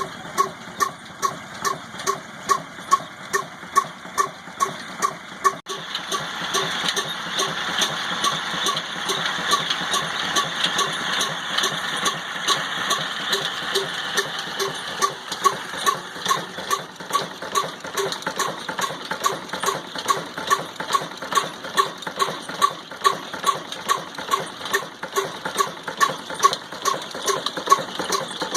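Old Ruston Hornsby single-cylinder diesel engine running slowly with an even, regular thump about twice a second while it drives a chakki flour mill. About six seconds in a steady hiss comes in under the beats.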